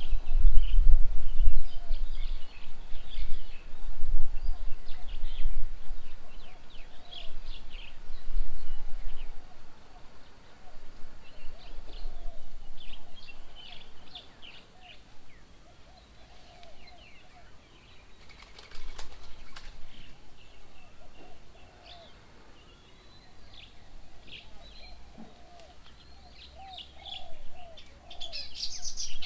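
Birds chirping and calling around a garden bird table: many short, high chirps all the way through, over lower warbling calls. A low rumbling noise runs for about the first third, then fades out.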